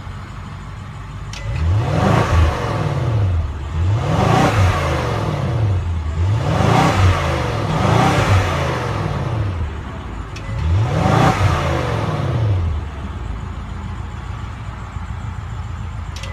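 BMW 750i xDrive's 4.4-litre twin-turbo V8 revved several times while standing, each rev rising and falling back, then settling to a steady idle near the end.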